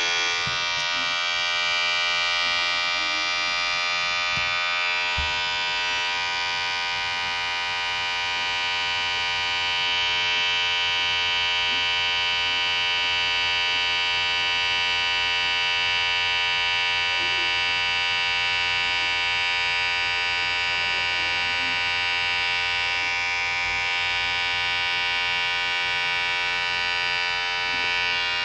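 Electric hair clipper running steadily: a continuous, even buzz that does not change.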